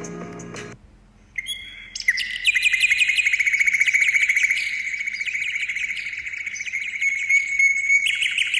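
A bird sings one long, fast trill made of rapid repeated notes, starting about a second in and holding steady for several seconds, with fainter higher chirps above it.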